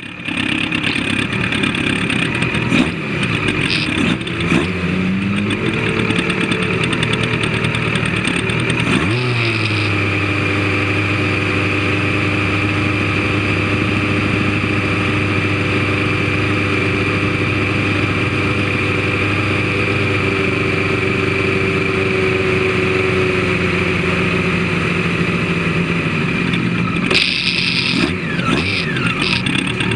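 Vehicle engine heard onboard, running with its pitch wandering at first, rising quickly about nine seconds in, then holding at a steady speed for much of the run. Near the end the pitch drops and changes, with a few short clicks.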